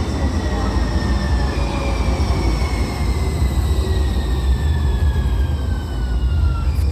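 A one-car Muni Metro Siemens light rail vehicle slowing into an underground station: a steady low rumble of wheels with the electric traction motor whine falling steadily in pitch as it decelerates. A short click near the end.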